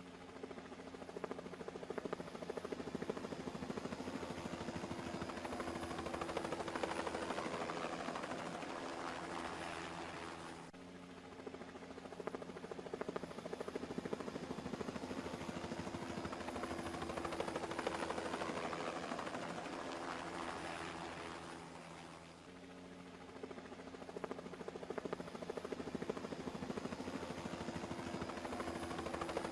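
A police helicopter flying: a steady hum of engine and rotor that swells and fades, with abrupt jumps in the sound about 11 and 22 seconds in.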